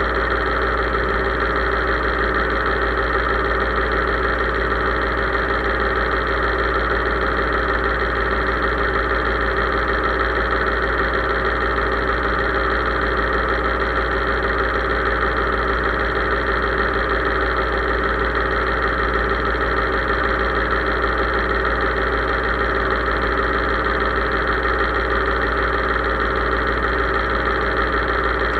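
Case IH 3220 tractor's diesel engine running steadily, without change in speed.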